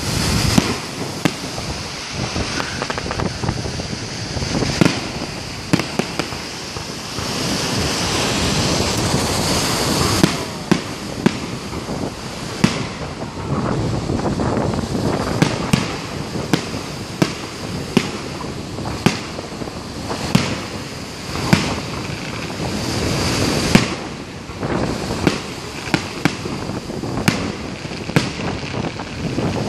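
Aerial fireworks display: a rapid, irregular series of sharp shell-burst bangs, dozens in all, over a steady rushing noise.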